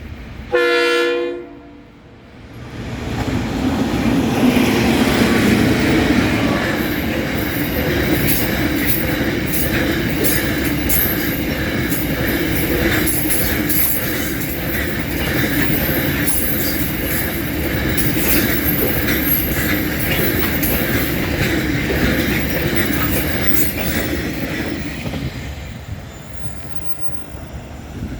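A diesel-electric locomotive's horn blasts briefly about half a second in, then two KiwiRail DXC diesel-electric locomotives pass, followed by a loaded coal train's wagons rolling by with wheels clicking over rail joints. The rumble fades near the end as the train moves away.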